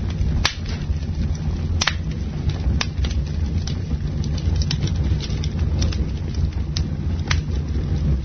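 Campfire crackling: sharp irregular pops and snaps of burning wood, the loudest about half a second, two and three seconds in, over a steady low rumble.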